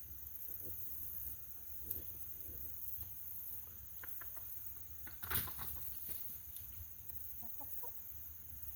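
Backyard hens clucking quietly in short calls, with a brief louder rustling noise a little past halfway.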